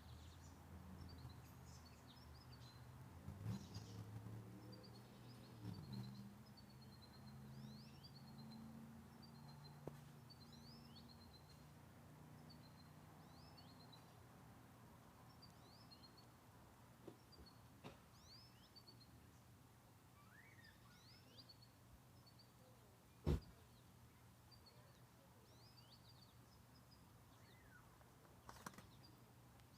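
Faint songbird chirping throughout: short high notes, several a second. A faint low hum runs through roughly the first twelve seconds, and there is one sharp click a little over twenty seconds in.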